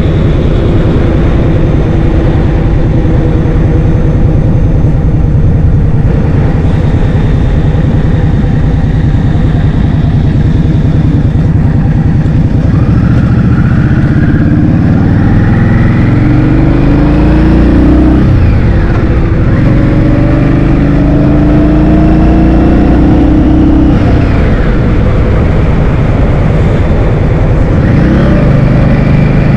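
Loud wind rumble buffeting the microphone while riding a motor scooter. Engine notes run under it, rising and falling in pitch from about halfway through, with sweeping pitch changes twice near the end.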